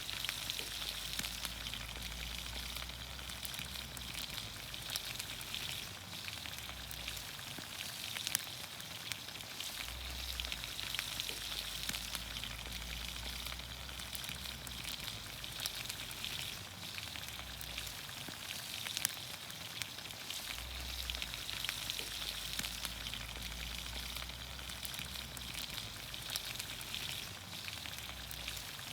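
Vegetables in olive oil sizzling over a campfire: a steady hiss full of fine crackles, with a few louder pops.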